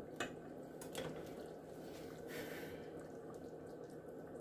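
Faint liquid sounds from the chicken, broth and vegetables cooking in the Instant Pot, with a couple of light clicks in the first second.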